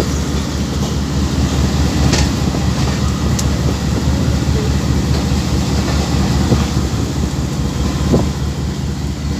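GEU-20 diesel locomotive hauling a train, with a steady low engine drone and the rumble of the train running on the rails. A few faint clicks sound over it.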